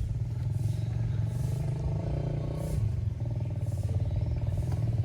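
Mazda CX-5 engine idling steadily with an even rumble. A rougher mid-range layer joins in about three seconds in.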